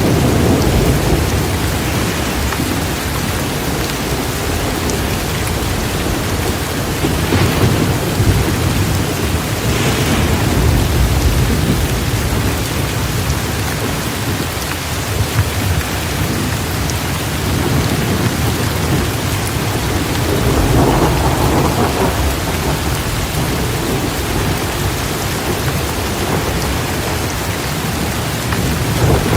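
Torrential rain pouring steadily, with low rolling thunder rumbling and swelling several times.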